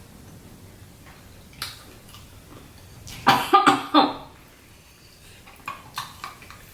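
A person coughing four times in quick succession about three seconds in, while eating a very hot pepper sauce. A few small clicks of eating before and after.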